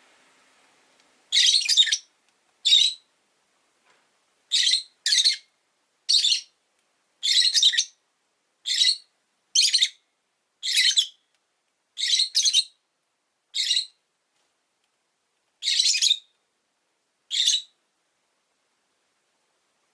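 Rosy-faced lovebirds chirping: about fourteen short, high-pitched calls, spaced irregularly a second or so apart with quiet gaps between.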